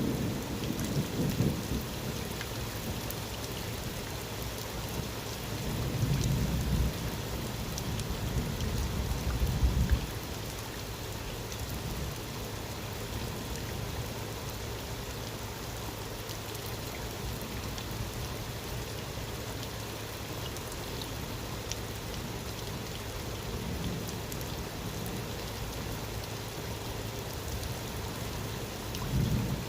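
Steady rain falling during a thunderstorm, with rolls of thunder rumbling: one about a second in, a longer one from about six to ten seconds in, and a short one near the end.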